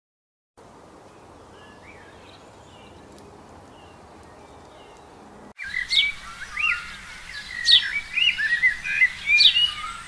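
Bird calls: faint chirps over a low hiss, then after a sudden cut about halfway through, loud, rapid whistled calls and chirps with quick rises and falls in pitch and some sharp high notes.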